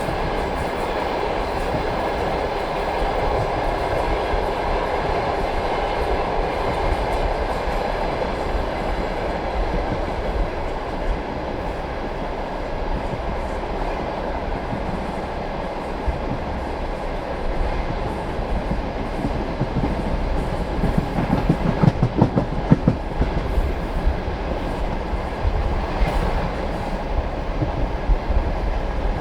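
Passenger train carriage running along the track: a steady rumble of the wheels on the rails, with a quick run of knocking clicks over rail joints about two-thirds of the way through.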